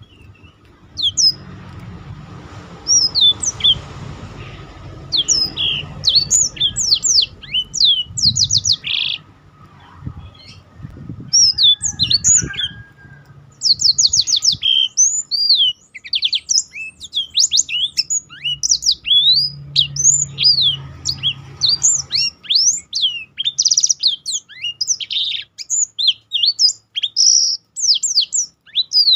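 Black-throated canaries (blackthroats) singing a fast, varied song of high chirps and sweeping whistles, which grows busier and more continuous about halfway through. A low rumbling noise sits under the song near the start and again later.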